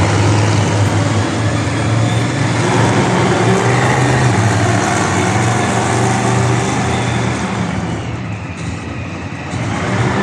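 Monster truck engine running steadily with a low, even rumble. It drops back briefly near the end.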